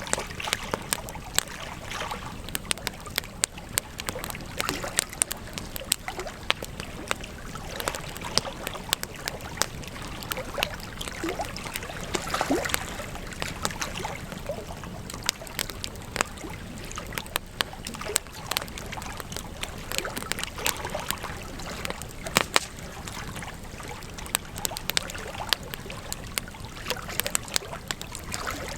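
Wood campfire burning: a steady rush of flame with frequent sharp crackles and pops from the burning wood.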